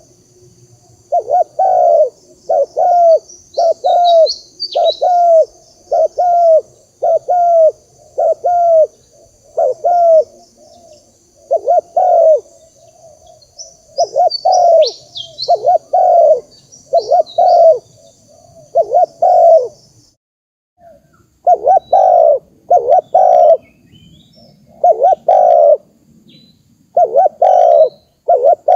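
Spotted dove cooing over and over, short notes about once a second, often in pairs, with a brief pause about two-thirds of the way through: a lure call for drawing wild doves. Small birds chirp briefly twice, high above the cooing.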